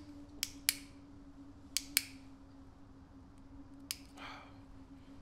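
A cigarette lighter struck repeatedly, with five sharp clicks, some trailing a short rasp. A soft breath follows near the end, over a steady low hum.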